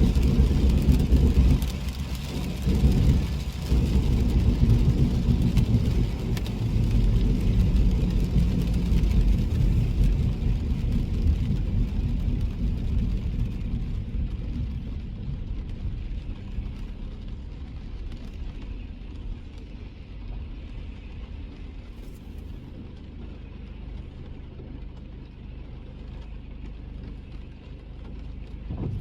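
Car driving on a wet road: a low engine and road rumble with tyre hiss. The hiss dies away and the whole sound grows quieter as the car slows down, ending on a low, steady hum.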